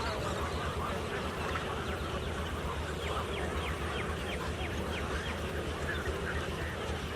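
Many birds calling at once in a dense chorus, with a quick run of short falling calls, about four a second, around the middle. A steady low hum runs underneath.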